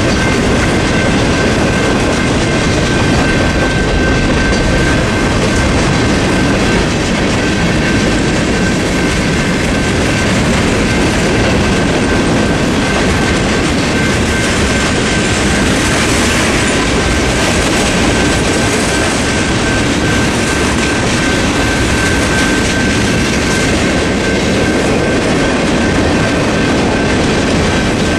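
Freight cars of a Norfolk Southern mixed freight rolling steadily through a grade crossing, their steel wheels running loudly on the rails. A steady high ringing from the crossing's General Signals Type 2 electronic bell runs throughout.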